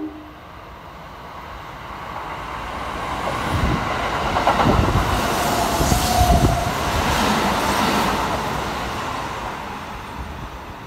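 Kintetsu electric train passing through a station at speed without stopping. The rumble builds over a couple of seconds, peaks with rapid clacking of the wheels over the rail joints, then fades away.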